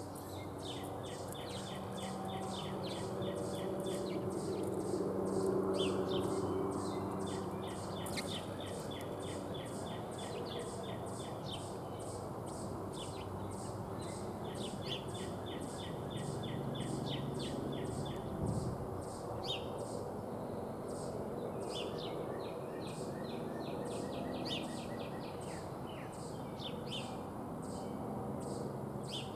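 Songbirds chirping over and over at a feeder, with a trill of a few seconds that recurs every several seconds, over a steady low background hum.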